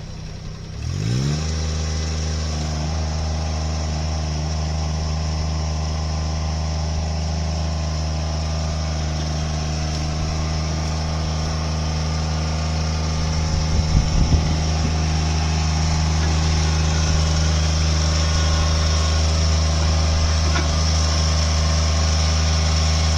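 Engine of a bucket loader rising in speed about a second in, then running steadily at high revs, with a few brief clanks about halfway through.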